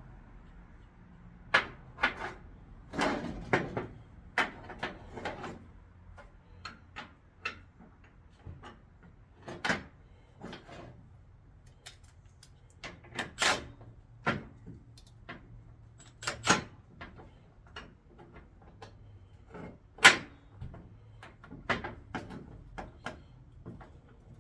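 Irregular clicks, clinks and knocks of hand tools and car parts being handled during work on a car's front suspension, with the sharpest knock about twenty seconds in.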